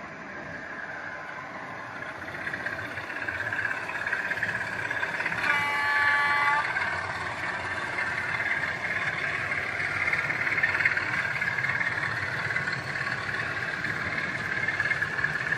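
Model diesel locomotive's DCC sound decoder playing engine sound through its small speaker, growing louder over the first few seconds, with a horn sounding once for about a second around six seconds in.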